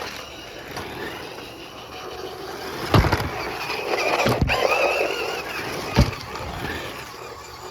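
Small RC cars driving on a hard floor, their electric motors whining and wheels rolling, with three sharp knocks as the cars crash into each other, the first about three seconds in and the last about six seconds in.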